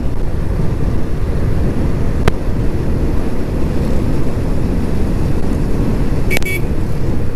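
Steady low rumble of wind buffeting and a Suzuki GS150 motorcycle's running noise picked up by a clip-on lavalier mic while riding. A brief sharp, high-pitched sound cuts in about six seconds in.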